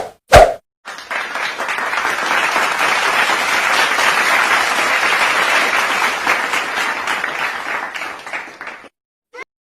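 Crowd applauding, a dense patter of many hands clapping that swells in about a second in, holds steady, and fades away near the end. Two short loud thumps come right at the start.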